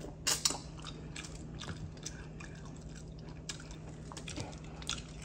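Close-up mouth sounds of someone chewing mussels in garlic butter sauce: wet smacks and small clicks scattered through, the loudest pair just after the start.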